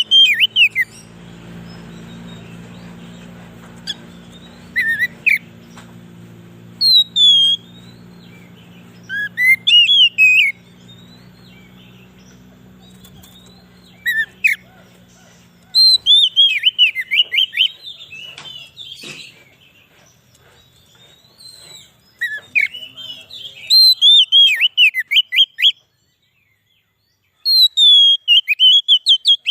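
Oriental magpie-robin (kacer) singing: loud sweeping whistled phrases in short bursts separated by pauses, over a faint low hum. Near the end the sound drops to dead silence for a moment before the song starts again.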